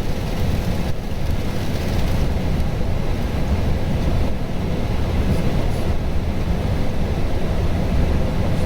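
Steady low rumble of airflow and engines inside an Airbus A320 cockpit in flight, with a faint steady hum above it.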